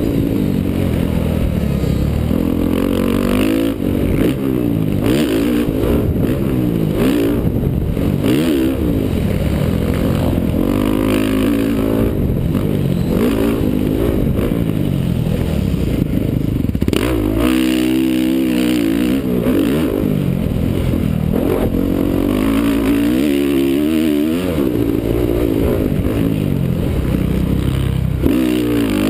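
Honda CRF450R's single-cylinder four-stroke engine revving up and falling back over and over as the bike is ridden hard through the gears and corners of a motocross track, the pitch rising and dropping every second or two. The sound is muffled, heard through a helmet-mounted GoPro.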